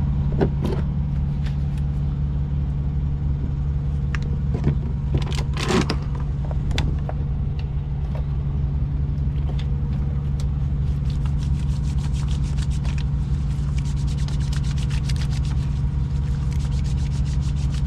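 Semi-truck's diesel engine running steadily, heard from inside the cab, with scattered clicks and light rattles, turning into a fast, even ticking rattle in the second half.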